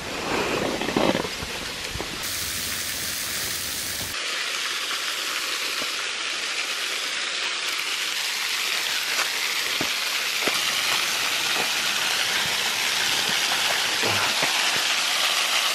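Steady hissing rush of a waterfall's falling water, growing slowly louder. Some louder knocks and rumble come in the first couple of seconds.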